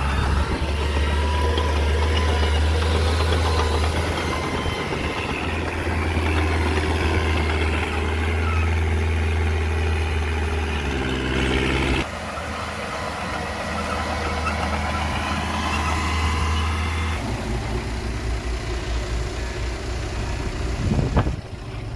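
Heavy diesel engines of earthmoving machines running, a deep steady hum that changes abruptly about halfway through and again later. A short, sharp loud sound comes near the end.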